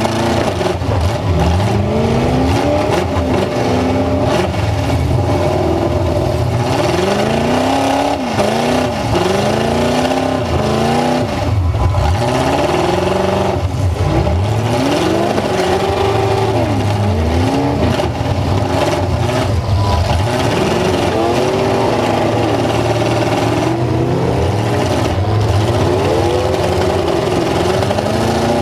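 Full-size truck engine revving hard, its pitch climbing and dropping again and again as the throttle is worked.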